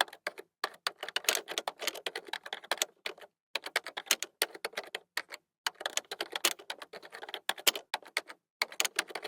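Typing on a computer keyboard: fast, irregular keystrokes in short runs with brief pauses.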